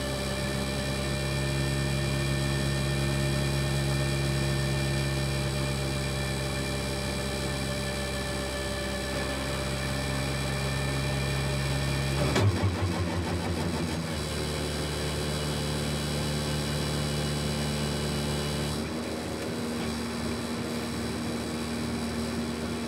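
Ferrari 488 GT Modificata's twin-turbo V8 running steadily at low speed in second gear, heard from inside the cockpit. About twelve seconds in there is a sudden short louder burst and the engine note changes. It changes again near the end as the car slows and drops into neutral.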